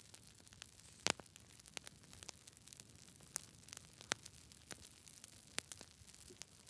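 Campfire of burning wood crackling: irregular sharp pops and snaps over a soft steady hiss, the loudest pop about a second in.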